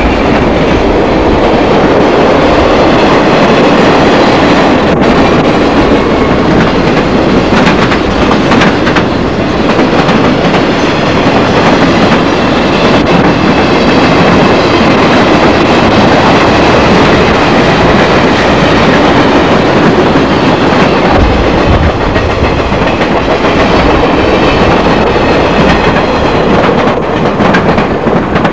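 A train passing close by: a loud, steady rumble and rattle of railcars rolling over the track, with a few sharp clicks.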